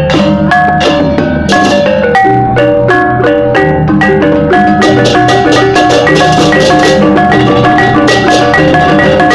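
Balinese gamelan music: fast, interlocking struck metallophone tones in a dense, steady rhythm.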